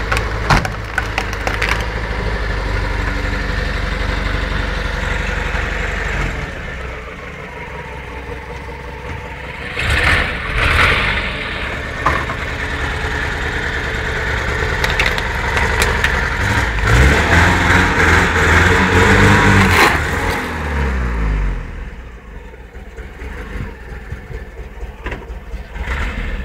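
Car engine running as the car rolls over a plastic electronic clock, with sharp cracks of the plastic under the tyre in the first couple of seconds. The engine rises in pitch as it revs, loudest about two-thirds of the way through, then falls away.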